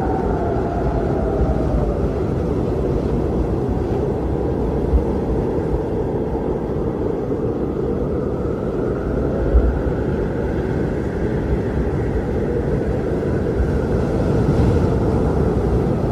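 Strong blizzard wind blowing in a steady deep rush, with a faint howling tone that slides down near the start and swells up again later.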